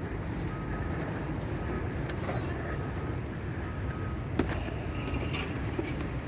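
Steady low rumble of road traffic, with faint short beeps repeating every half-second or so and a few sharp clicks in the second half.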